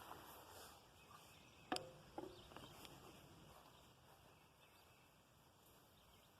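Near silence: faint outdoor ambience, with one sharp click a little under two seconds in and a smaller click just after.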